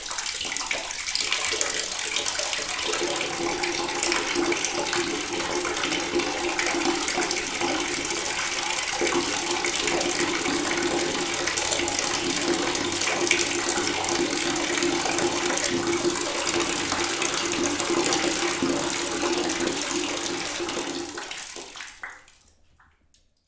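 Water running from a tap in a full, steady stream, with a low steady hum under the rush. The flow tapers off and stops near the end.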